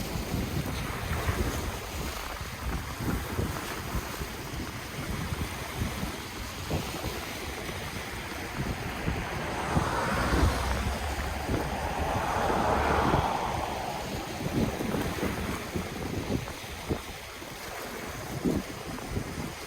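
Ocean waves washing on the shore, with wind buffeting the microphone. The surf swells louder twice about halfway through, then falls back.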